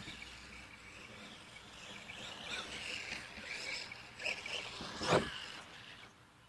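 Electric RC monster truck's motor and drivetrain whining as it drives, rising and falling with the throttle, with a sharp thump about five seconds in.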